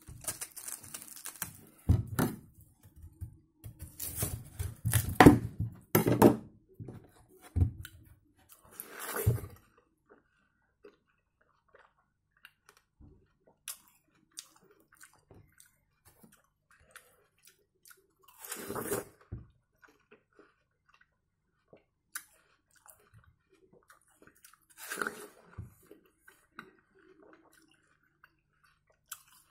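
Biting and chewing juicy watermelon flesh close to the microphone: wet crunching, busy for the first ten seconds or so, then two short bouts later with quiet between. A watermelon slice is pulled apart by hand near the start.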